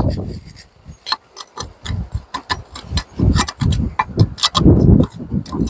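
Pocket knife working at the corroded metal fitting of a burn can (drip torch) to free the clogged fuel flow: irregular small clicks and scrapes of metal on metal, with a few duller low thuds.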